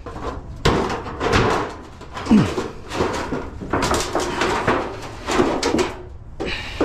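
Thin steel chimney tubes clanking and crumpling in a run of irregular hits, with a brief creaking squeal about a third of the way in.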